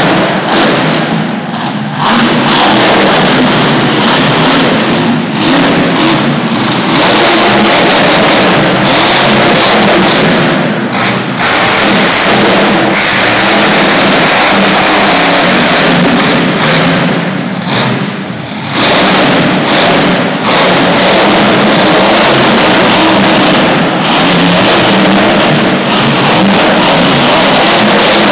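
Monster truck engine revving hard and held at full throttle through a freestyle run, easing off briefly every few seconds before surging again. It is loud enough to overload the phone's microphone.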